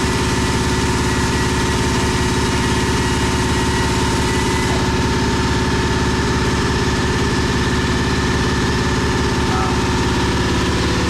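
Steady drone of running workshop machinery: a constant hum with several held tones and a fast, even low pulsing, unchanging throughout.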